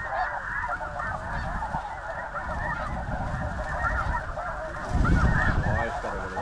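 A huge flock of snow geese calling: a dense, unbroken chorus of many overlapping high, yelping honks. A louder low rumble comes in about five seconds in.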